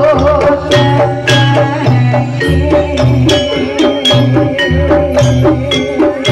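Live jaranan (kuda lumping) accompaniment music: drums beating a repeating rhythm, a low pulsing bass, ringing struck metallic notes and a wavering sustained melody line over them.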